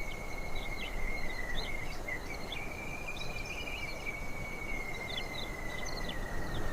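Natural outdoor ambience: a steady, high, slightly wavering insect drone with short bird chirps scattered over it and a soft hiss beneath.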